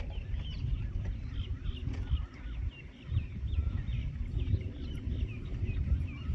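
Birds chirping in quick repeated short calls over a constant low rumble.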